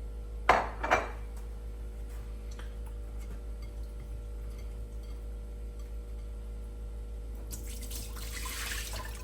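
Two sharp clatters of dishware or glass being handled, then a kitchen tap running for a couple of seconds near the end, over a steady low hum.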